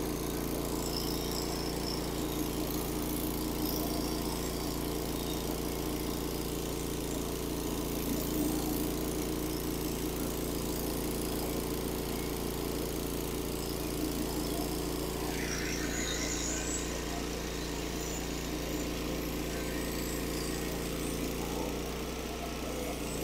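Engine of a Norwood HD36 portable band sawmill running steadily at speed while the band blade cuts a board from a white oak log.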